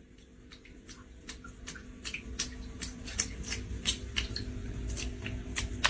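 A steady run of small sharp clicks, about three to four a second, over a low steady hum.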